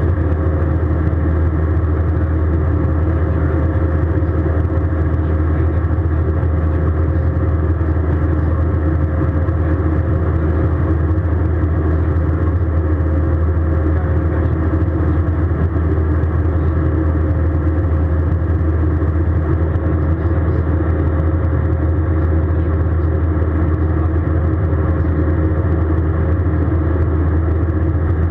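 Steady cabin drone of an Airbus A320 airliner in flight, heard from inside the cabin: a deep, unbroken rumble of engine and airflow noise with a faint steady hum above it.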